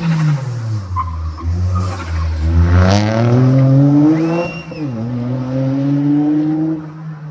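Rally car engine coming off the throttle and dropping in revs, then accelerating hard, with one quick gear change about four and a half seconds in before pulling up through the revs again and fading near the end.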